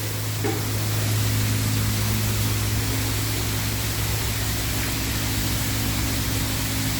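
High-pressure water spray from a self-serve car wash wand, a steady hiss over a constant low hum.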